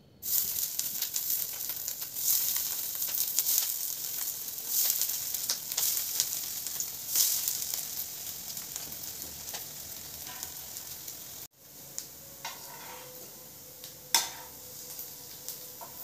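Broccoli-paneer tikkis sizzling in hot oil in a nonstick frying pan as they go in for shallow frying. The sizzle starts suddenly and crackles loudest at first, then slowly dies down; after a break about two-thirds of the way in, it goes on more quietly with a few clicks.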